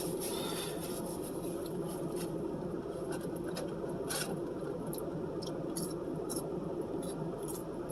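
Close-miked eating: chewing with scattered sharp crackles and rustles.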